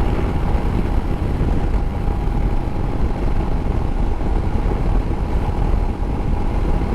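Motorcycle riding at road speed: a steady, unbroken rumble of engine and wind.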